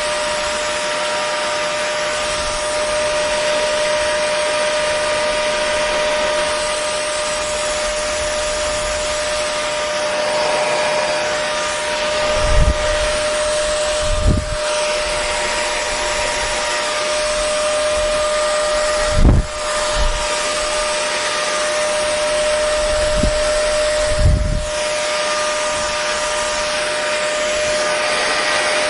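Hair dryer running steadily: a constant rush of blown air with a steady motor whine. Several brief low thumps break in about halfway through and after.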